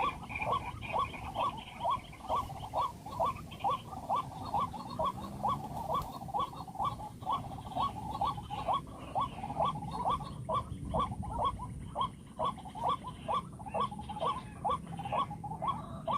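White-breasted waterhen calling: a rapid, even series of short, harsh notes, about two to three a second, repeated over and over.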